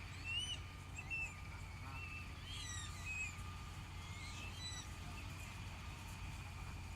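Birds calling: a string of short calls that rise and fall in pitch, some overlapping, over a steady low rumble.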